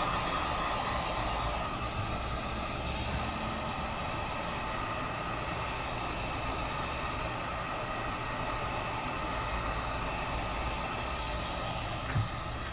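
Heat gun blowing steadily, a continuous rushing hiss, while the phone's glass is heated to soften its adhesive. A single short click comes near the end.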